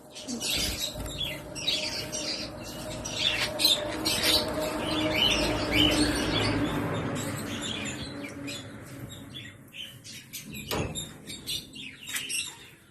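A colony of parakeets chirping and chattering with many short, high calls, over a rushing noise that swells through the first two-thirds and then fades.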